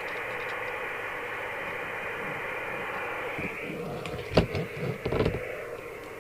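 Steady receiver hiss from a Rotel RVC240 FM CB radio's speaker. The hiss changes and drops about three and a half seconds in, and a cluster of sharp knocks follows, typical of the roof aerial's plug being handled and connected.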